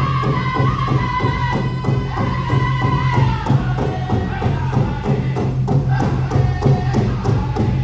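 Powwow drum group: a large shared drum struck in a fast, steady beat of about four to five strokes a second, with singers holding a high line that drops lower about three seconds in.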